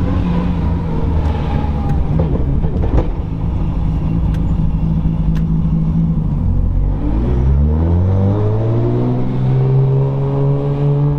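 Nissan Skyline R33 GTR's built RB26 inline-six (2.8-litre stroker, single big turbo), heard from inside the cabin. It runs steadily at low revs, then about six seconds in the revs climb smoothly over a couple of seconds and settle at a steady higher pitch as the car accelerates.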